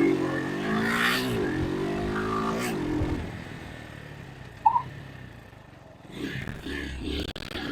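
Vitacci GTT250's 229cc single-cylinder four-stroke engine accelerating away, its pitch dropping and climbing again at gear changes about one second and nearly three seconds in, then fading into the distance.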